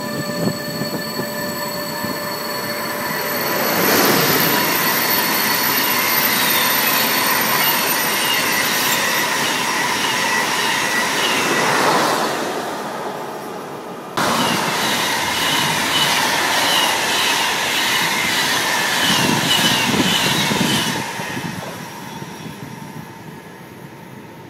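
Electric trains passing close by at speed, a loud rush of wheel and rail noise with short high squeals repeating. About 14 seconds in, the sound cuts abruptly to a second passing train, which fades away near the end.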